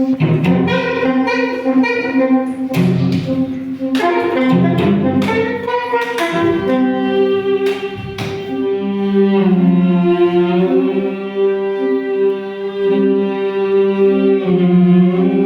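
Live instrumental music: long held notes, some sliding in pitch, over sharp percussive strikes that stop about eight seconds in.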